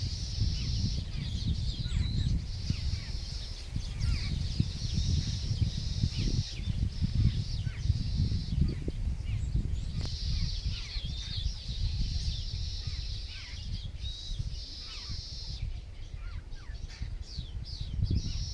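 Wild birds calling outdoors in many short chirps. Behind them a steady high-pitched hiss starts and stops in spells of a few seconds, over a low rumble throughout.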